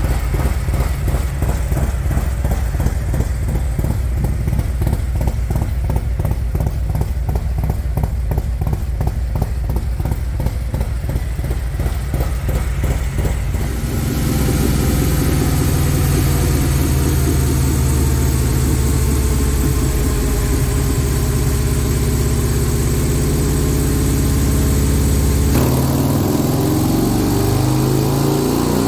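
Harley-Davidson Milwaukee-Eight 114 V-twin with an S&S 475 cam and Screamin Eagle exhaust, idling with an evenly pulsing beat. About halfway in, the revs step up and hold. Near the end there is a sudden change and the revs climb.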